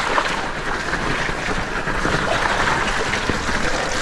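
Mountain e-bike riding through wet mud: steady tyre and riding noise mixed with wind on the microphone.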